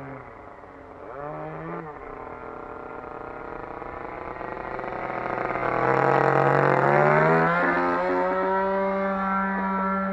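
RCGF 20cc single-cylinder two-stroke petrol engine of a Seagull Harrier 3D model plane running. The throttle is blipped up and back down briefly about a second in, then the engine grows louder to a peak around six to seven seconds and settles at a steady higher pitch.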